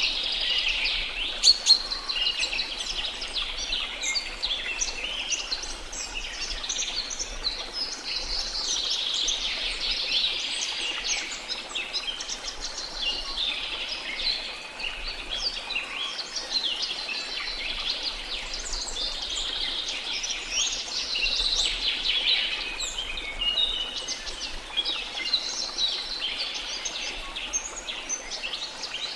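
A dense chorus of many birds chirping and calling, with rapid overlapping high-pitched notes and short sweeping whistles, over a faint steady hiss. A sharp click stands out about a second and a half in.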